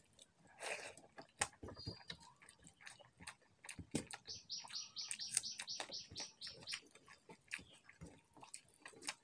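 Mouth sounds of chewing and smacking on a mouthful of rice and dal eaten by hand, with short sharp clicks from fingers working the food on a steel plate. About four seconds in, a bird gives a quick run of about a dozen high chirps lasting two and a half seconds.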